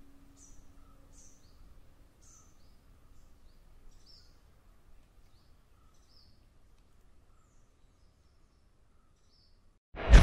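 Birds chirping: short, high, falling chirps, several a second at first, thinning out and fading away. The last notes of an acoustic guitar ring out in the first couple of seconds, and a loud burst cuts in just before the end.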